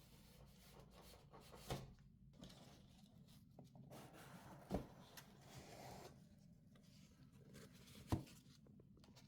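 Quiet handling noise: faint rubbing with three light knocks, about three seconds apart.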